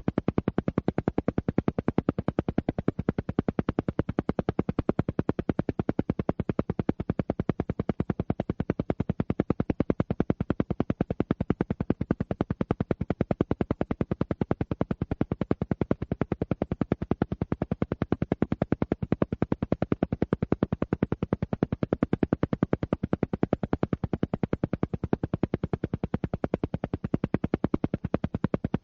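Rapid, evenly spaced pulses, roughly ten a second, repeating without change: an alpha-frequency pulse track of the kind played for brainwave entrainment.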